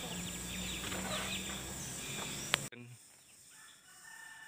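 Birds chirping outdoors in short calls over a faint low hum. About two and a half seconds in, a single click is heard and the sound cuts off abruptly to near silence.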